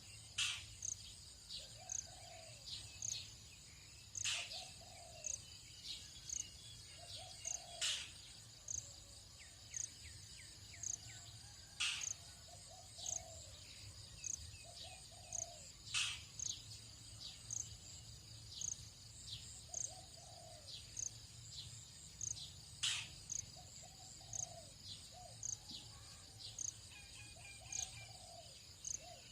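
Tropical dawn chorus of insects and birds: a steady high insect trill with an even pulse, a short low call repeated about once a second, and sharp high calls every few seconds.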